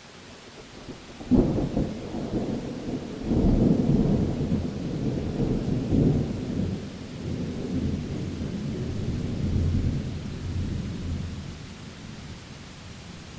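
Thunder during a rainstorm: a sharp crack about a second in, then a long rolling rumble that surges several times and dies away, over the steady hiss of rain.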